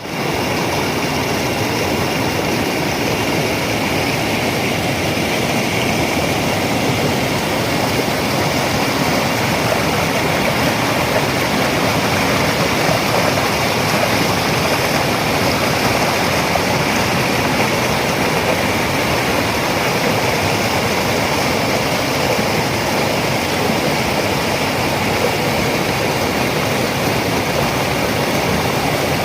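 River water rushing, a loud steady noise with no breaks.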